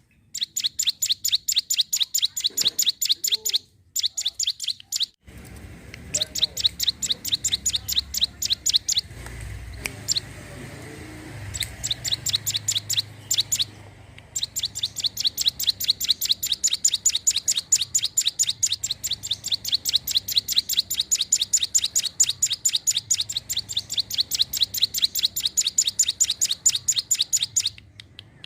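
Ciblek gunung, a mountain prinia, calling in long rapid runs of sharp high notes, about six a second, with a few short breaks.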